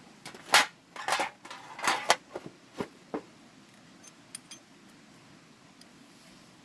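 Metal objects clinking and clattering in a quick run of sharp knocks over about three seconds, the loudest about half a second in, then a couple of faint ticks.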